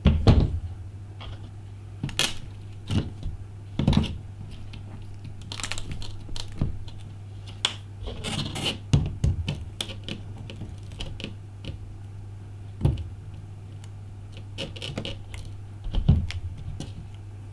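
Scattered clicks, taps and short scrapes of a knife blade and broken glass as a cracked iPhone 5 screen is pried off, over a steady low hum.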